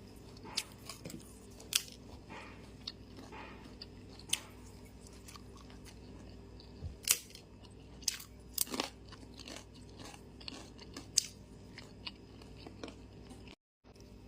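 Close-up chewing and mouth sounds of a person eating: irregular wet smacks and sharp clicks. The sound drops out completely for a moment near the end.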